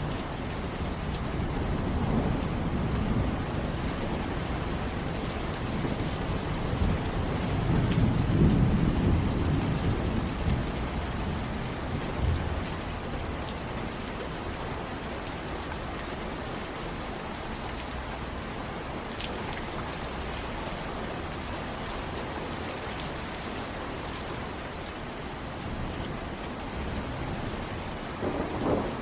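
Steady rain falling, with low rumbles of thunder rolling underneath; the strongest rumble comes about eight to ten seconds in, and a shorter one near the end.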